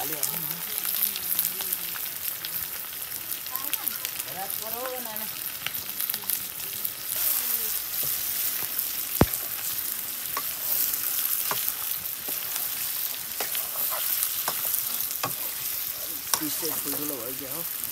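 Chicken pieces sizzling as they fry in a steel karahi over a wood fire, stirred with a metal spatula that scrapes and clicks against the pan. One sharp click stands out about nine seconds in.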